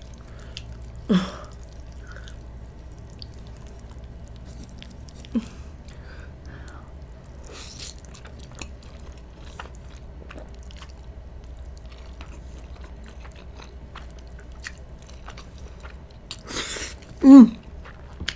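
Close-miked chewing of spaghetti and meatballs, with small wet mouth clicks and smacks throughout. Near the end comes a loud slurp of pasta, followed by a short hum.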